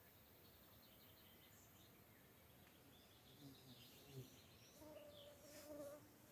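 Near silence: faint riverbank ambience with a few faint, distant bird chirps and a brief faint steady tone about five seconds in.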